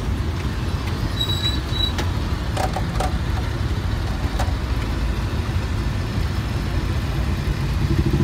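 Steady low rumble of road and wind noise while riding a motorcycle through city traffic, with a few faint clicks and a brief high beep about a second in.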